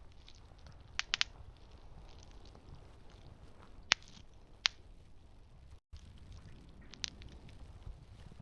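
Campfire burning with a low steady rumble and a few sharp, scattered crackles and pops from the burning wood, the loudest a single pop about four seconds in. The sound cuts out for an instant about two-thirds of the way through.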